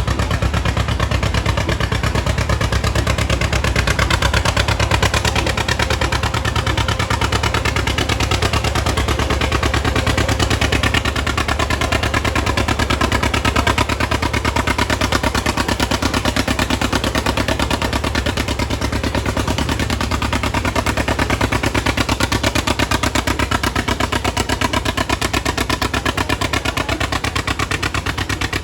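Antique tractor engine running hard under full load while pulling the sled down the track, with a rapid, steady exhaust beat that eases off slightly near the end.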